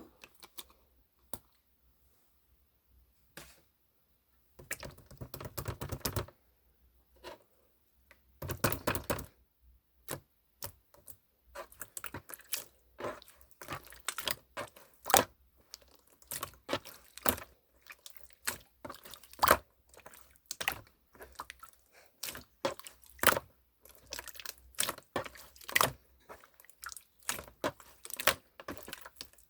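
Close-up handling sounds: two short stretches of rustling about five and nine seconds in, then a dense run of sharp clicks and taps, several a second, growing louder.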